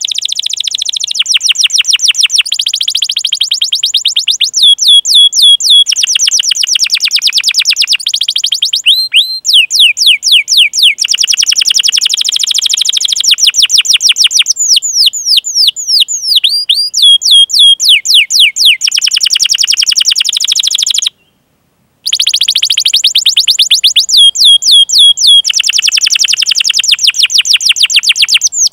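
Domestic canary singing a long rolling song: fast runs of repeated high chirps and trills, changing pace from run to run. The song breaks off for about a second roughly three quarters of the way through, then resumes.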